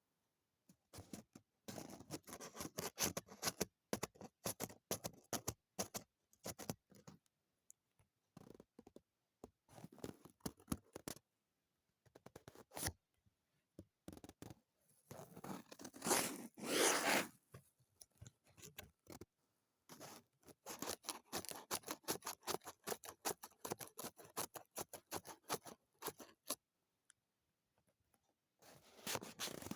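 Scissors snipping through paper in runs of quick, crisp cuts, with paper handling and rustling between, broken by short silent pauses.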